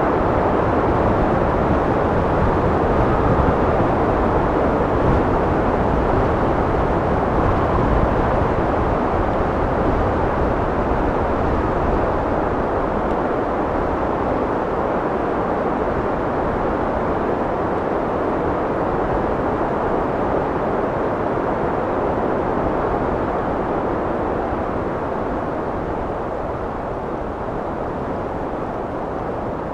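Steady wind blowing, an even rushing noise that eases off a little toward the end.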